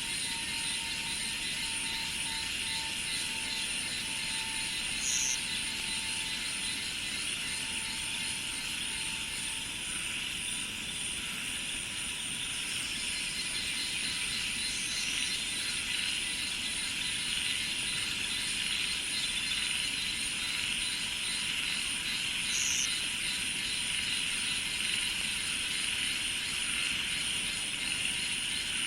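Dense, steady chorus of insects trilling and buzzing in a high, continuous band, with a few brief higher chirps scattered through it.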